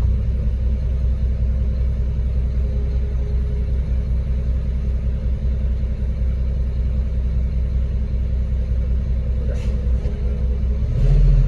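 Concrete mixer truck's diesel engine running steadily, a low rumble, with a brief louder surge near the end.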